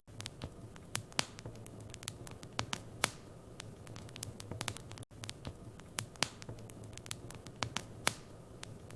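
Wood fire in a fireplace crackling, with irregular sharp pops and snaps over a low steady hum. There is a very brief gap about five seconds in.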